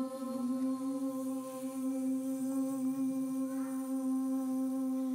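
A person humming one long, steady note.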